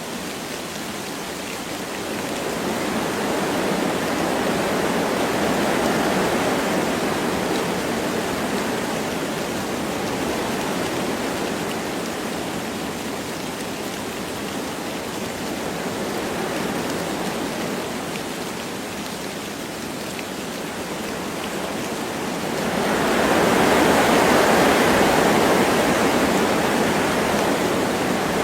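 Wind blowing through forest trees over light rain, a rushing noise that rises and falls in gusts, swelling a few seconds in and most strongly near the end.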